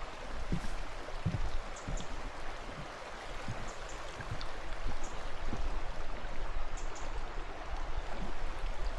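Stream water rushing steadily, with scattered low thumps and a few faint high ticks over it.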